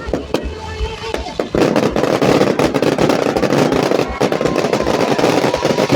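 Firecrackers going off in a rapid, irregular string of sharp bangs and pops over the noise of a crowd.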